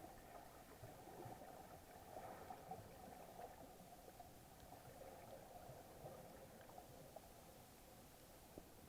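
Faint, muffled underwater ambience heard through an action camera's waterproof housing: a low even hiss with scattered small clicks and crackles.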